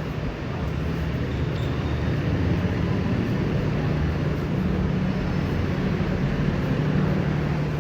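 City street traffic: a steady low engine drone from a large vehicle such as a bus, over a wash of road noise.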